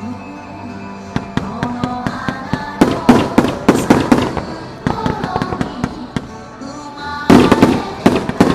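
Aerial fireworks bursting: a rapid run of bangs and crackles starting about a second in, densest around three to four seconds, then a loud cluster of bangs near the end.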